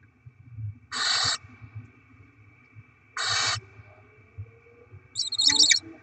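Barn owls at the nest: two rasping, hissing screeches about two seconds apart, typical of nestlings begging for food, then a rapid high chittering call near the end.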